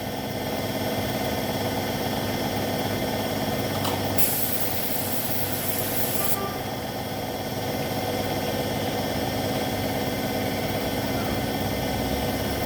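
Paint spray gun hissing in one burst of about two seconds, starting about four seconds in, over a steady machine hum.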